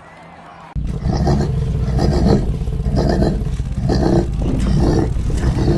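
Monster truck engine revving loudly, cutting in suddenly about a second in and surging in repeated pulses roughly once a second.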